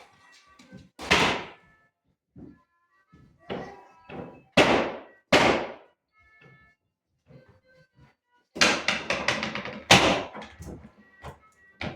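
A series of loud thuds and crashes, each with a short rattling tail, from demolition and renovation work in a room, with a quick run of blows about nine seconds in.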